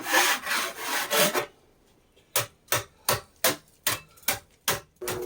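Two or three rough scraping strokes across wood, then a run of about eight sharp clicks, about three a second.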